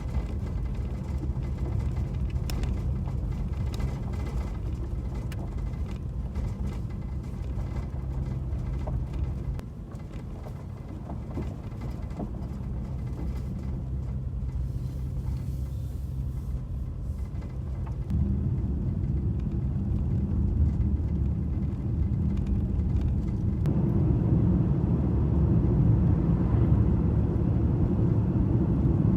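Strong wind buffeting the microphone: a steady low rumble that jumps in level several times as the footage changes.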